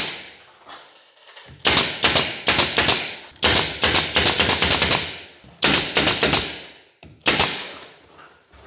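Pneumatic F50 brad nailer (air tacker) firing in quick runs, four bursts of several rapid shots each, driving pins into 24 mm plywood blocking.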